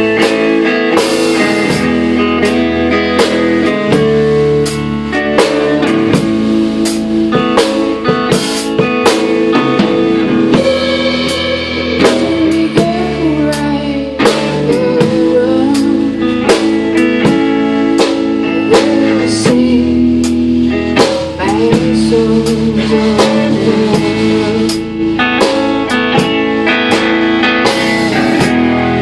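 A small band playing a song live: guitar and drum kit, with a singing voice at times.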